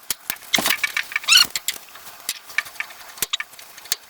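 Scattered light clicks and a couple of short squeaks of screws being backed out with a Phillips screwdriver and handled.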